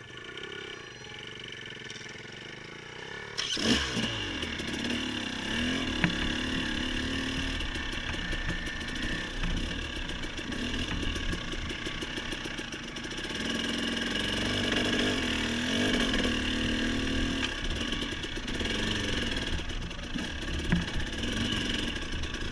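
Off-road motorcycle engine running at a low idle, then getting louder suddenly about three seconds in and revving up and down under throttle as the bike is ridden.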